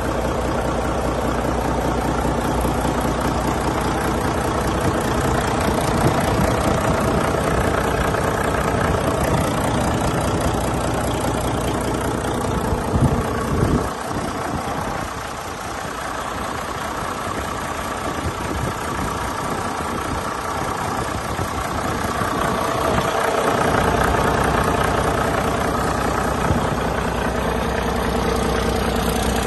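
2012 Volvo D13 12.8-litre inline-six diesel truck engine running steadily on a test run. Its deep low rumble drops away about halfway through and returns some ten seconds later.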